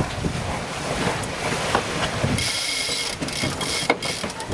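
Wind and water noise on a Catalina 27 sailboat under way during a jibe. About halfway through, a steady high mechanical whir with clicks joins in.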